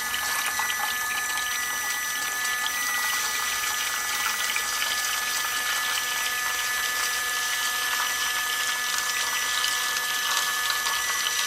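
Water pump running and pushing water out of two hose lines, a small one and a big one, fed off the same tee: a steady rush of water with a thin steady whine.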